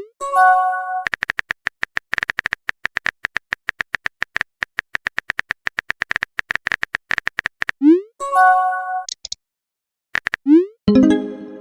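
Chat-app sound effects. A rising swoosh and a short synthetic chime mark a message, then a long run of rapid, even keyboard-typing clicks goes on for several seconds. Another swoosh and chime come after the typing stops, and a fuller chime follows near the end.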